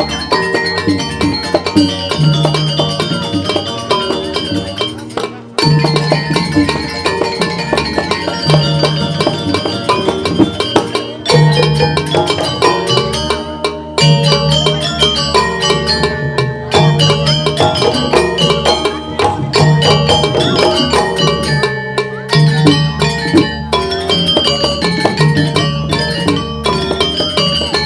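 Traditional Balinese gamelan music: ringing metallophones and percussion playing busy, repeating patterns over a recurring low tone, with a brief break about five seconds in.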